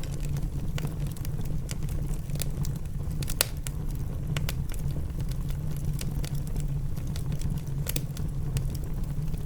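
Wood fire in a fireplace crackling with irregular sharp pops, over steady rain and a low rumble.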